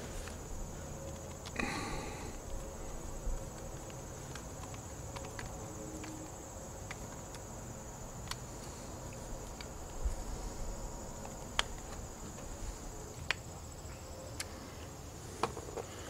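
Steady high-pitched chorus of insects, likely crickets, with a few sharp little clicks and taps of a screwdriver working the set screws of a 30 amp plug's wire terminals.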